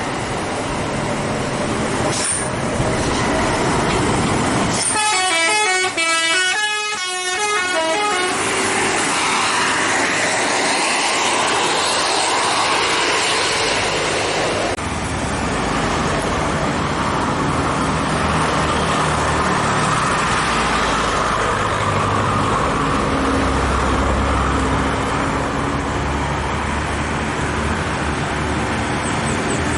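Heavy trucks' engines running hard up a steep grade, with a multi-note musical horn playing a quick run of changing tones for about three seconds, starting about five seconds in. A deeper engine rumble builds from about halfway through.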